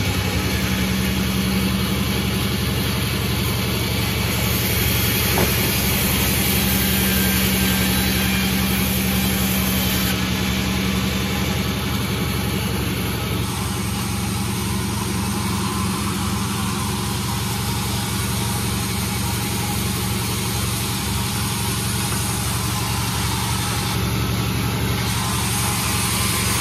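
Panda36 sawmill running with a steady engine drone that holds one pitch throughout, with no breaks or bursts.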